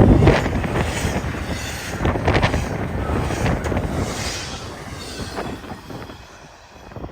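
Freight train rolling past, its cars giving off repeated clanks and knocks over a rumble. The sound fades steadily over the last few seconds as the train moves away.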